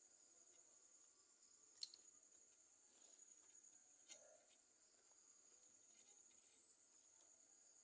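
Near silence: a faint steady high-pitched hiss, with two small clicks about two and four seconds in.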